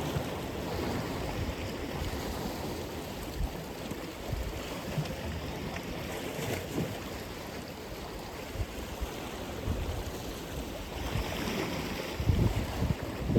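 Atlantic Ocean waves breaking and washing on the shore: a continuous surf noise that swells louder near the end, with low buffeting from wind on the microphone.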